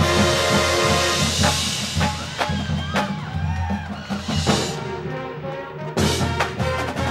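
Drum and bugle corps playing: brass horns hold a loud chord over battery percussion, thin out to a quieter passage punctuated by sharp drum hits, then the full ensemble comes back in loudly about six seconds in.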